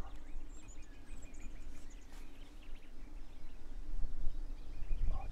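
Small birds calling in strings of short, quick chirps, over a steady low hum and a low rumble of wind or handling on the microphone.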